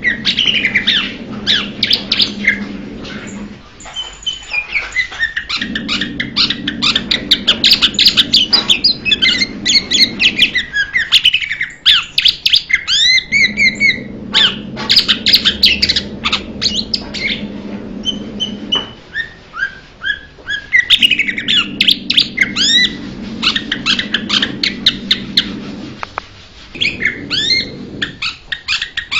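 Blue-winged leafbird singing: a fast, varied chatter of sharp chirps and sliding whistles, in bouts of several seconds broken by short pauses. A low steady hum runs under each bout.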